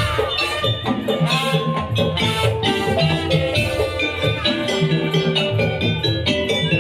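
Madurese daul (tong-tong) music: a percussion ensemble of drums and tuned instruments playing a busy, steady rhythm with a melodic line over it.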